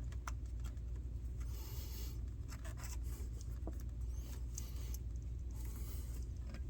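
Small scrapes and light clicks of hand work on engine-bay parts during a coil pack replacement, with two short scratchy rubs, over a steady low hum.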